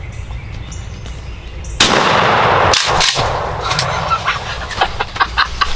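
A single shotgun blast at a wild turkey, about two seconds in: a sudden loud report that rings on for about a second and fades. Scattered clicks and rustling follow.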